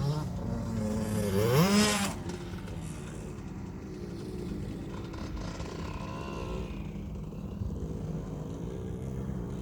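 KTM 65 SX's small 65cc two-stroke single-cylinder motocross engine revving up sharply, loudest a second and a half to two seconds in, then dropping to a quieter engine note that rises and falls in pitch.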